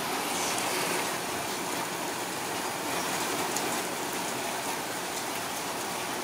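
Heavy rain falling steadily, a dense even hiss with an occasional sharper drip.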